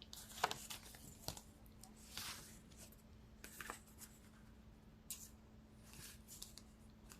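Faint rustles and light ticks of tarot cards being handled, a few scattered sounds about a second apart over a faint steady hum.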